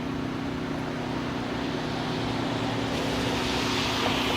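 A steady low mechanical hum, like an engine running, with a hiss that grows louder over the last second or so.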